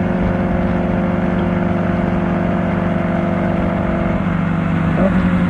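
Kawasaki Ninja ZX-4R inline-four running through an Akrapovic exhaust at a steady engine speed while riding. The engine note drops a little about four seconds in, then rises briefly near the end.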